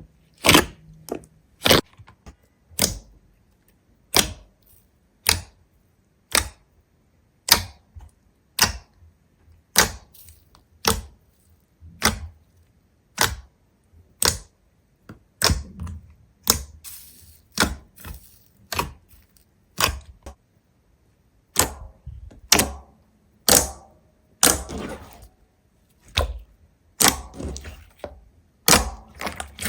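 A steady run of sharp, crisp cracks, roughly one a second, with a few longer crunching stretches in the middle and latter part.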